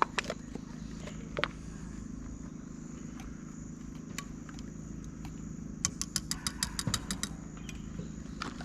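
A metal spoon clinking and scraping in a cooking pot as shredded cheese is stirred into the sauce, ending in a quick run of about a dozen clinks, over a steady low hum.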